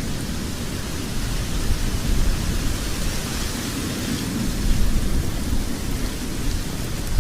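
Wood logs burning in a fireplace: a steady low rumble of the fire with a hiss over it and a few faint crackles.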